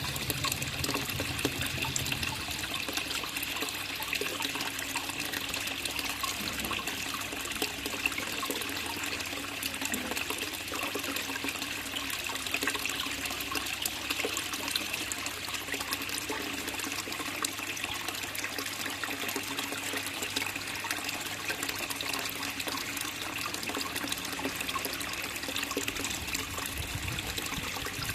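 Water in a fish pond trickling and splashing steadily, a constant bright patter of falling water. A faint low hum drops away about two seconds in.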